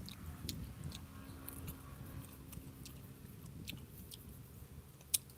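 Close-up chewing of rambutan fruit flesh: wet mouth sounds with scattered small clicks and one sharper click near the end.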